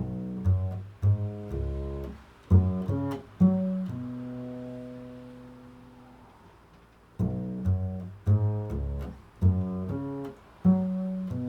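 Improvised music on a plucked string instrument: a phrase of low plucked notes and chords, then a chord left ringing and slowly fading for about three seconds, then the same phrase played again.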